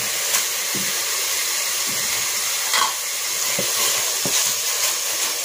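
Tomatoes and onion frying in oil in a metal pot: a steady sizzle, with a few light knocks of a wooden spoon stirring.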